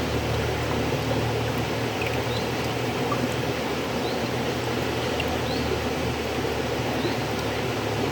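River water flowing steadily, an even rushing with a deep low rumble. Faint short high chirps repeat about once a second over it.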